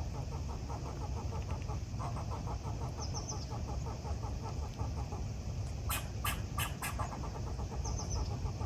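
Birds chirping: a rapid pulsing chatter runs throughout, with a short high trill about three seconds in and again near the end. Four loud, sharp calls come in quick succession a little past the middle, over a steady low rumble.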